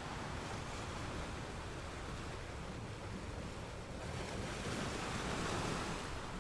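Ocean surf washing onto a sandy beach: a steady hiss of water, with one wave swelling louder about four seconds in and easing off near the end.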